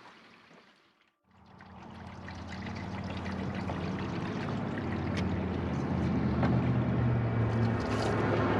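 Old Camaro engine running on a makeshift gravity gas feed, starting about a second in and growing steadily louder.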